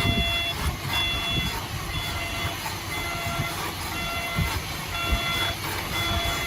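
Heavy earthmoving machine's reversing alarm beeping about once a second, each beep about half a second long, over the low, uneven rumble of its diesel engine.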